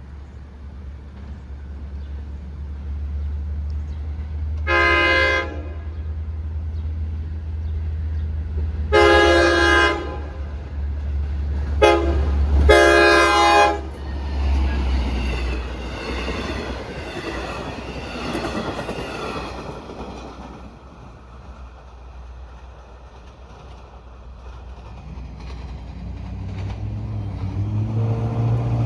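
Long Island Rail Road diesel locomotive 506, a DM30AC, passing with train 80. Its engine rumbles low and steady as it sounds its multi-note horn four times: short, long, very short, long. The cars then rattle past and fade.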